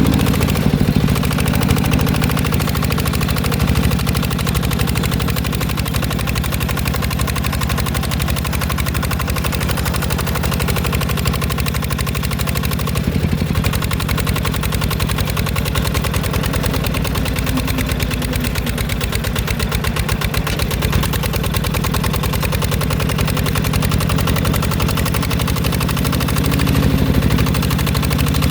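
Engine of a small 14 hp Mecatech tractor running steadily at a near-constant speed, with a rapid, even beat of firing pulses.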